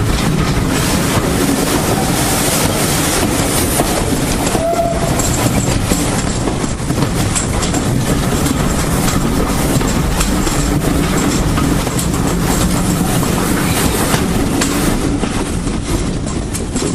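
Steam-hauled heritage train running on the line, a loud steady rumble with its wheels clattering over the rail joints.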